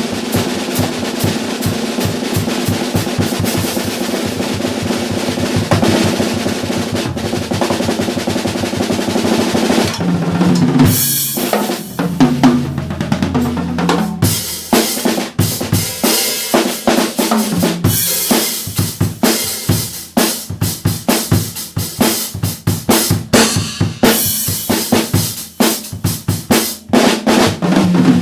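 Yamaha drum kit played solo. Fast, dense strokes and rolls for about the first ten seconds, then descending tom fills and a groove broken up by crash cymbal hits.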